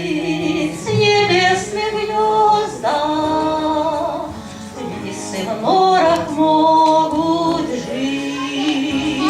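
Christian hymn music with a singing voice holding long, slow notes over accompaniment.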